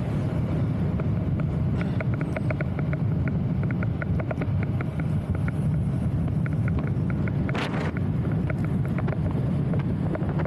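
Wind buffeting the microphone with a steady low rumble. Over it come runs of quick, light ticks, several a second, and a brief rush of noise about three-quarters of the way through.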